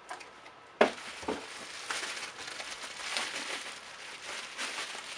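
Packaging crinkling and rustling as it is handled, with one sharp knock under a second in.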